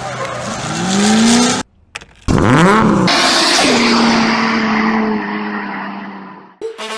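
Drift car engines revving hard over squealing tyres: one engine climbs in revs and cuts off abruptly about a second and a half in. After a short gap another revs up and drops back, then holds steady revs while the tyre squeal runs on and fades near the end.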